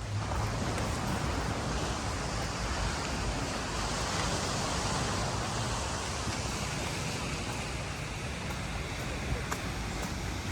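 Steady rush of rain and surf on the beach, swelling a little midway, with wind buffeting the microphone.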